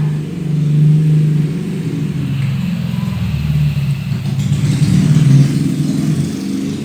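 A cat purring loudly close up, a steady low rumble with fast even pulsing that swells slightly a few times.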